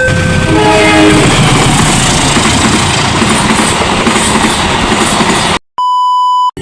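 A level-crossing warning alarm sounds its alternating tones, then a train passes fast over the crossing with a loud, continuous rush of wheel and rail noise. The sound cuts off suddenly about five and a half seconds in, followed by a short steady beep.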